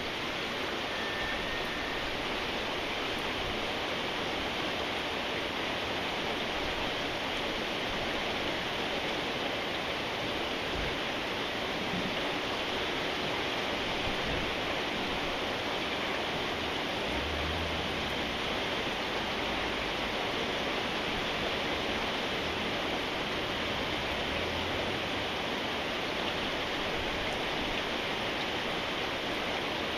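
Steady rain falling, an even unbroken hiss, with a few faint low knocks in the middle.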